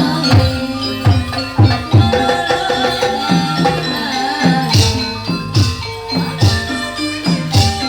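Kuda lumping gamelan music: low hand-drum strokes under a pitched metallophone melody, with sharp metallic crashes about once a second in the second half.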